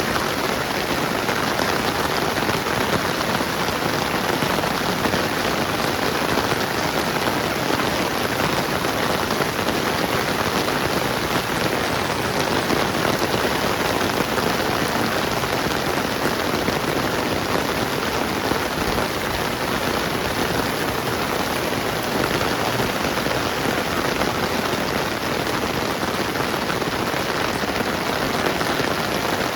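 Steady rain falling and pattering on surfaces, an even dense hiss.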